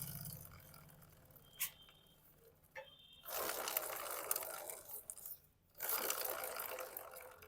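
Royal Enfield Electra rear wheel turned by hand on its reseated, freshly greased bearings: two stretches of light scraping, whirring noise, with a short click before them. The grinding noise the wheel had before is gone.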